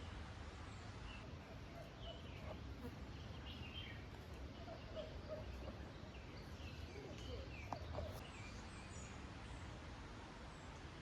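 Birds chirping with many short calls over a steady background hiss, with a brief louder note about eight seconds in.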